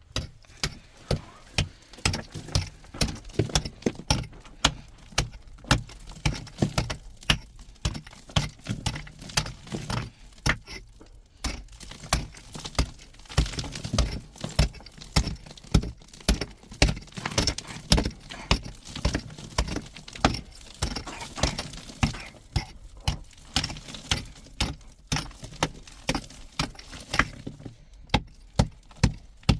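Repeated sharp knocks or taps, about two to three a second, going on steadily with short pauses about a third of the way in and near the end.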